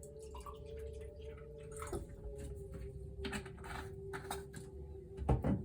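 Small knocks and liquid sounds of a bottle of water being handled and poured for testing, a sharper knock near the end, over a steady, slightly wavering tone.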